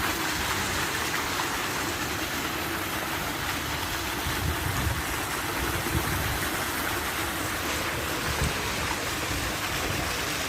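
Waterfall water pouring down, a steady rushing noise that holds even throughout.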